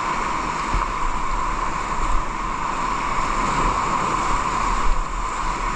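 Steady rush of water, with wind rumbling on the microphone.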